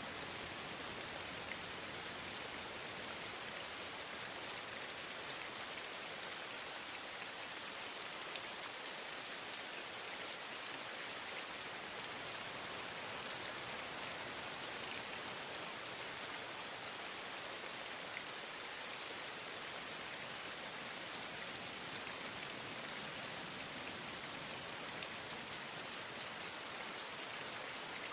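Steady rain, an even hiss throughout with scattered faint ticks of individual drops.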